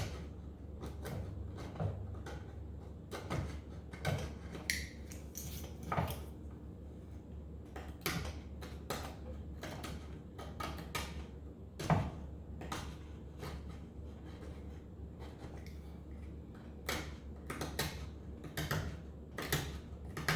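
A blade cutting and scraping old damper felt and brittle glue off the end of a wooden piano keystick, with irregular sharp clicks and cracks as the glue layer breaks away, over a low steady hum.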